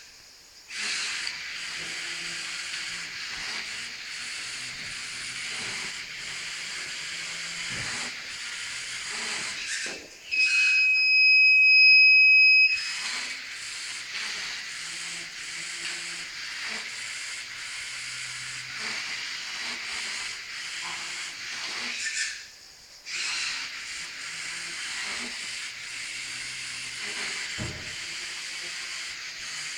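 Firebird V robot's small geared drive motors running with a steady high whirring hiss. About ten seconds in they stop while the robot's buzzer gives one steady high beep of about two and a half seconds, then they run again. They pause once more briefly about two thirds of the way through.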